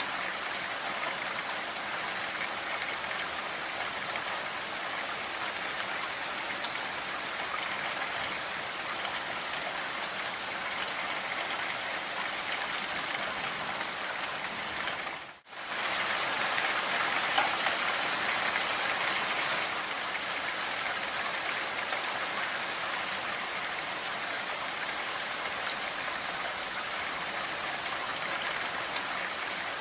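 Steady rain, a dense even hiss. About halfway through it cuts out for a split second, then comes back slightly louder for a few seconds before settling.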